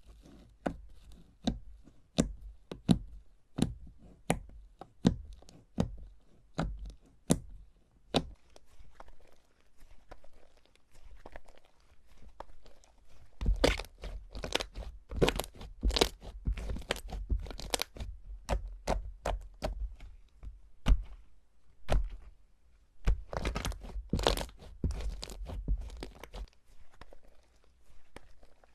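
Slime being squeezed and pressed, giving sharp crackling pops. The pops come singly every half second or so at first, then in dense crackling runs in the middle and near the end.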